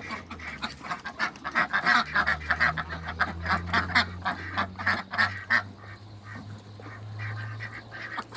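A flock of domestic ducks quacking and calling rapidly over one another, thinning out after about five seconds, with a low steady hum underneath.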